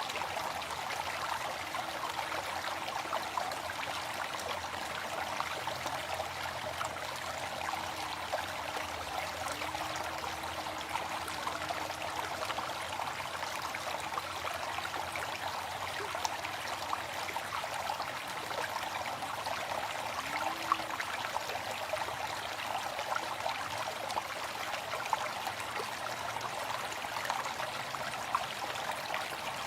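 Waterfall: a steady rush of falling water with small splashes scattered through it.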